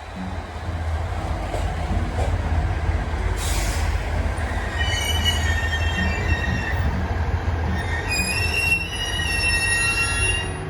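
HB-E210 series hybrid diesel train approaching with a steady low engine rumble. High-pitched squealing from the wheels comes in about halfway through and runs on, with a short hiss a little before it.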